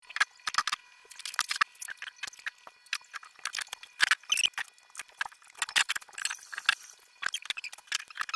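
Rapid clicks, taps and light clatter of food containers and items being handled and set on refrigerator shelves, with a brief hiss about six seconds in.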